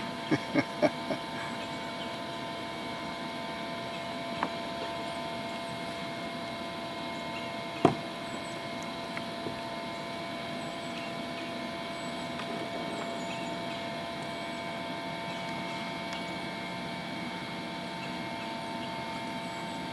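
Hollow knocks of a kayak and paddle as a paddler climbs out at the shore: a quick run of knocks at the start, a single one about four seconds in, and the loudest about eight seconds in, over a steady hum.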